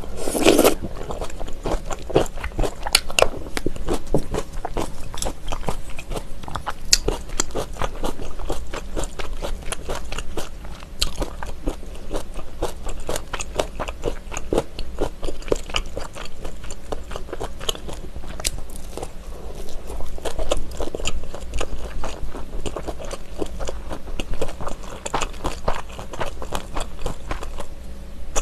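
Close-miked chewing and biting of kimchi stew with ham and crunchy radish kimchi, and of seaweed-wrapped gimbap: a dense, irregular run of crunches, clicks and wet mouth noises, with one loud crunch about half a second in.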